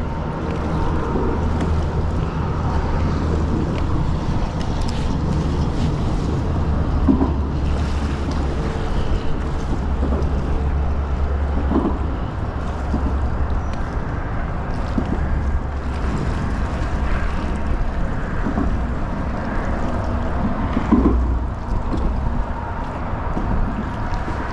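Wind buffeting the microphone with a steady low rumble, over water lapping against a kayak.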